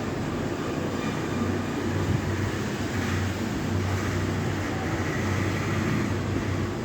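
Steady whirring air noise of a fan or blower, with a low hum that swells and fades.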